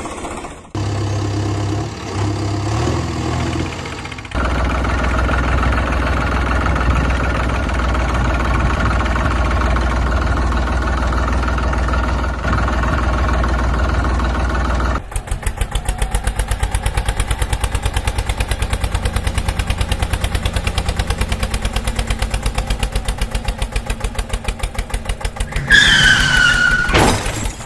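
Heavy vehicle engine sounds in several abruptly cut segments: a steady running engine, then from about halfway a fast, even chugging idle like a tractor or truck engine. Near the end comes a short high tone falling in pitch.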